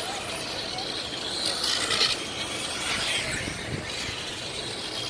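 Radio-controlled racing trucks driving on the track, a rising and falling whine over the rasp of tyres.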